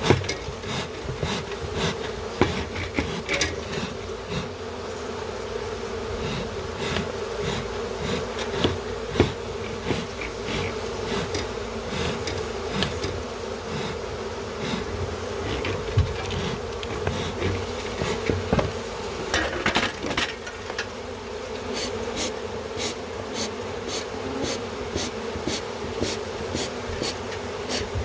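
A honeybee colony buzzing steadily, with many sharp clicks scattered through it that come about twice a second near the end.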